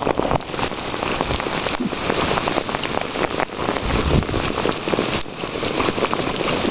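Steady, fairly loud rain falling, with many separate close drop hits.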